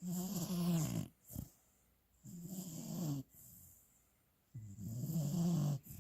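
A sleeping puppy snoring: three long, buzzing snores about two seconds apart, with quieter breathing between them.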